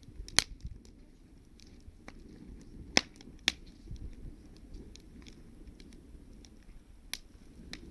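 Wood campfire crackling: irregular sharp pops and snaps, with the loudest about half a second in, twice around the middle, and once near the end.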